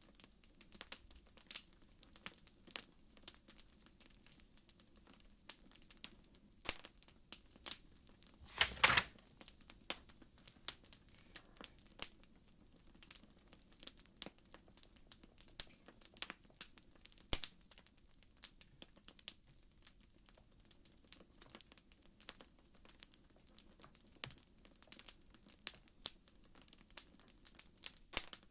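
Wood fire crackling softly, with scattered sharp pops and a louder burst of crackling about nine seconds in.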